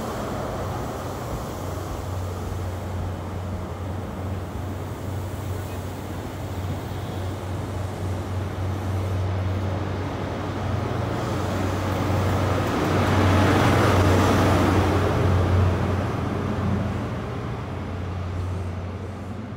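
High Speed Train of Mark 3 coaches with a Class 43 diesel power car passing along the platform: a steady low engine drone under wheel and rail noise. It swells about two-thirds of the way in as the power car passes, then fades as the train pulls away.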